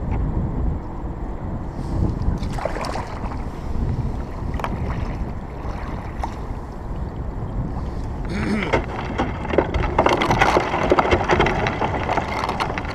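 Paddle strokes and water sloshing around a sea kayak, over a low wind rumble on the camera microphone. From about eight seconds in, the splashing turns louder and more crackly.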